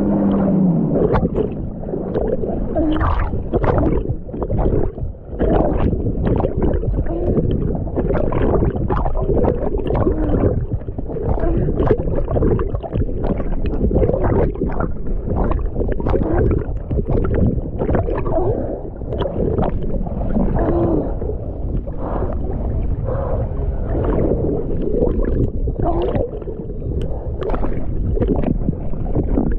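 Kawasaki SXR800 stand-up jet ski's two-stroke engine running on the water, mixed with a dense, muffled rush of hull chop and spray and constant irregular slaps against the water.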